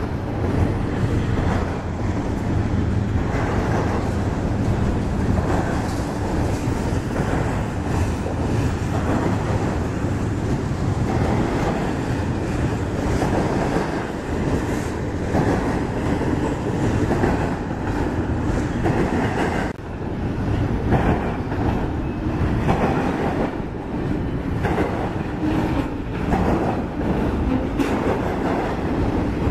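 Double-stack intermodal freight cars and trailer-carrying flatcars rolling past on steel rails, a steady rumble with wheels clicking over the rail joints.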